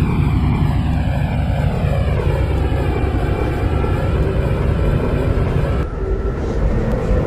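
MTR C-Train electric multiple unit running: a whine from the traction motors and inverter, its pitch gliding down and then levelling off, over a steady rumble of wheels on rails. Near the end the sound turns duller and the low rumble grows.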